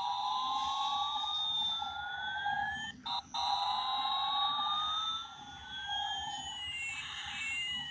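Toy airplane switched on, playing its electronic sound effect: a steady tone under slow siren-like whistles, one gliding up while another glides down. The sound cuts out twice briefly about three seconds in.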